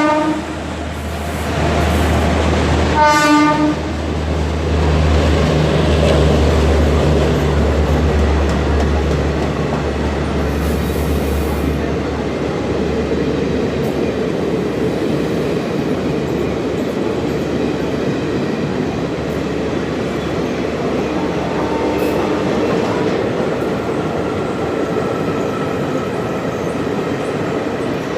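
An Indian Railways electric locomotive passing at speed without stopping, with a short horn blast about three seconds in and a deep hum for the first ten seconds. After that, its coaches rattle steadily over the rails.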